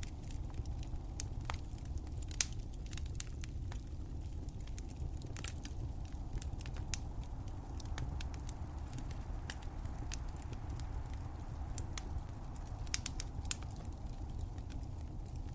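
Wood fire crackling: irregular sharp pops and snaps over a steady low rumble of flames, with a few louder pops.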